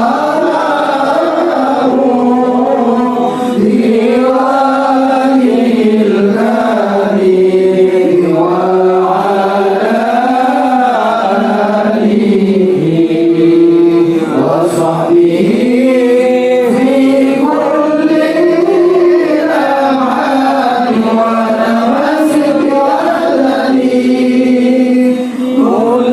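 Chanting with long held notes that rise and fall slowly in pitch, carried on without pause.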